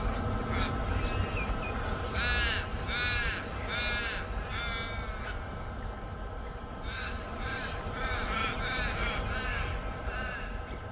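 Crow cawing: four loud drawn-out caws in quick succession, then a fainter run of about six more.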